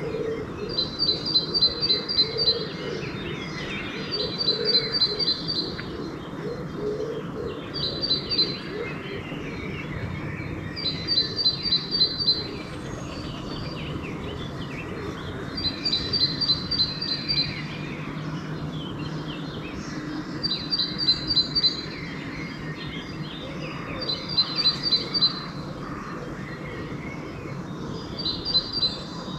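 Pre-dawn birdsong: one songbird repeats a short, fast run of high notes about every three to four seconds, with fainter calls from other birds and a steady low background rumble.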